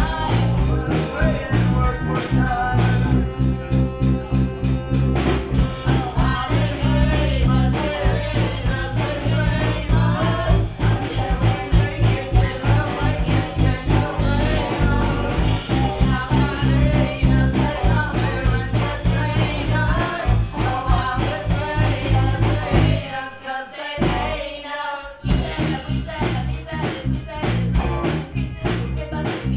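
Gypsy rock band playing live: singing over guitar, accordion, bass and a steady drum beat. About 23 seconds in, the bass and drums drop out for a two-second break before the full band comes back in.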